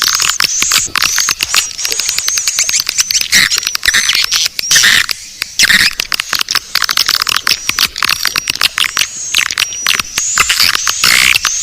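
Swiftlet lure-call recording of the kind played in swiftlet nest houses to draw swiftlets in: a dense, unbroken stream of quick high chirps and clicking twitters from many swiftlets. It sounds thin, with no low end.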